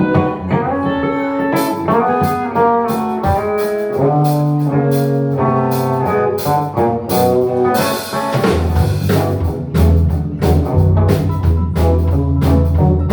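Live blues band playing: electric guitar picking out a melody, with drums and cymbals coming in shortly after the start and a heavy bass line joining about eight seconds in.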